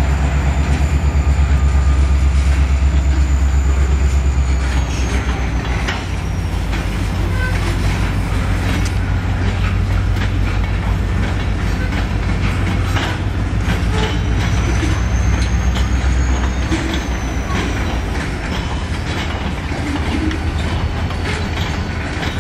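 CSX freight train's diesel locomotives and cars rumbling past, with the rumble heaviest in the first few seconds. Wheels click over the rail joints, and a faint high whine falls and rises twice.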